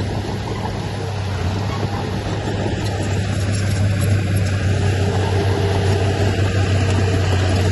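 Heavy diesel earthmoving machinery running steadily with a strong low drone, growing slightly louder partway through.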